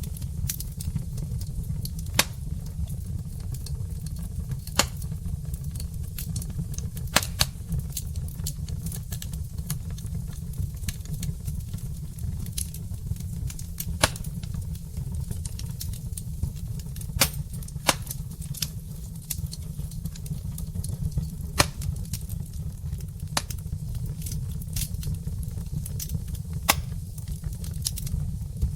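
Log fire burning in a fireplace: a steady low rumble of flames with sharp crackles and pops scattered irregularly, a dozen or so louder snaps standing out.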